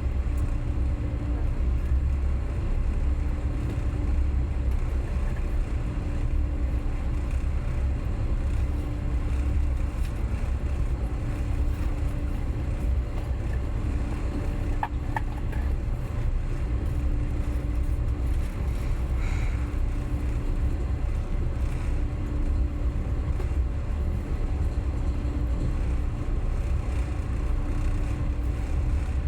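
Passenger train in motion: a steady low rumble of wheels on rail, with a faint tone that comes and goes about every two seconds.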